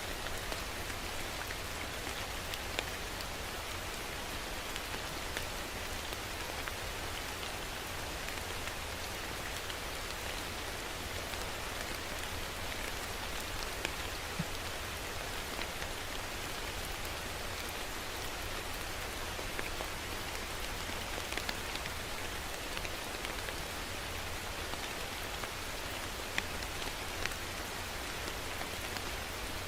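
Steady rain falling on a surface, an even hiss with scattered individual drops ticking now and then.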